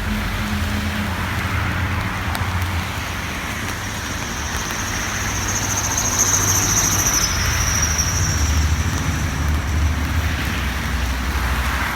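Road traffic on a rain-wet street: car engines rumbling and tyres hissing on the wet road. A high steady whine joins from about four to eight seconds in.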